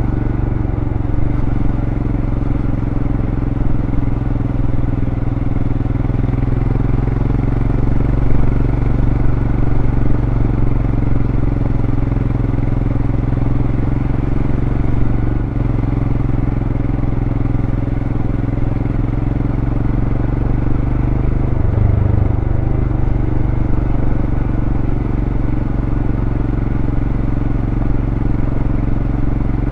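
2023 Royal Enfield Scram 411's single-cylinder engine running through its stock exhaust at a steady cruise. The note shifts briefly twice, a small one about halfway through and a clearer dip and recovery a little later.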